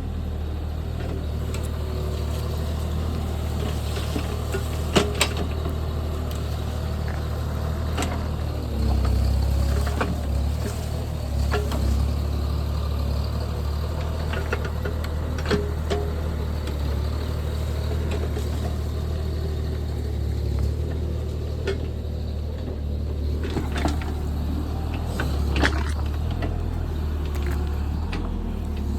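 JCB JS30 Plus mini excavator's diesel engine running steadily under work, with occasional sharp knocks and clanks.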